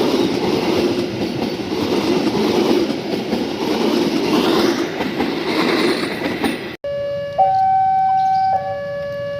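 Argo Wilis passenger train running over the rails with a steady rumble and wheel clatter. Near the end it cuts to an electronic two-tone alarm that alternates between a lower and a higher pitch about once a second.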